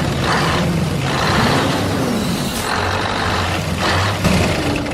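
A vehicle engine running: a noisy mechanical rumble that swells and eases several times.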